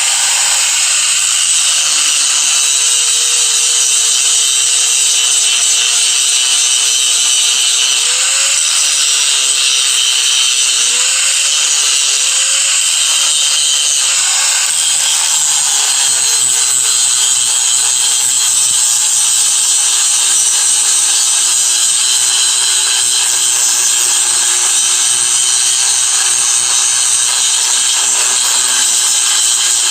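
Handheld electric grinder running under load in one continuous grind, a loud steady hiss over the motor's hum. The motor's pitch wavers and dips several times in the middle, then settles a little lower.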